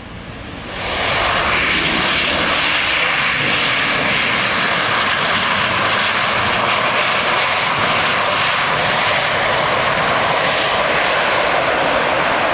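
Airliner on its landing approach passing close, its engine noise rising sharply about a second in, then holding loud and steady.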